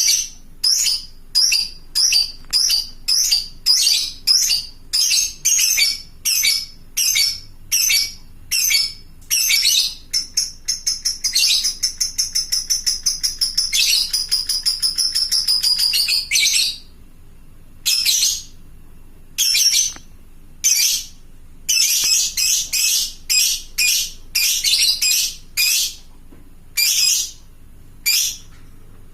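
Lovebird calling: loud, high chirps about two a second, then a rapid chattering trill lasting about six seconds (the long 'ngekek'), then more chirps with short pauses between them.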